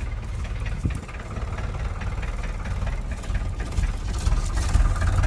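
Mercedes-Benz W123 240D's 2.4-litre four-cylinder diesel idling steadily just after a cold start in freezing weather, with a fast regular ticking over a low rumble. It gets a little louder near the end.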